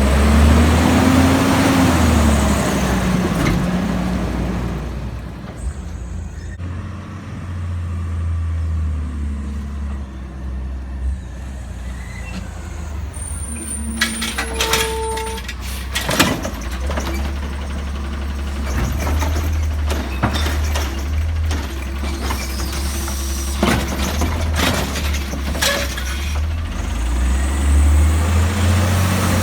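Garbage truck engine running with a steady low rumble. Near the start it revs up and back down under a hiss, and clanks and knocks come through, with one short beep about halfway.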